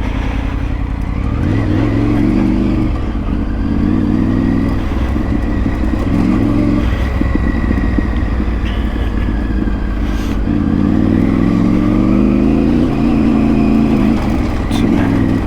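Triumph Tiger 900 Rally Pro's three-cylinder engine under way on the road, revs rising and falling several times as the bike is ridden, over steady low rumble and road noise. The engine is a second-hand replacement being tested.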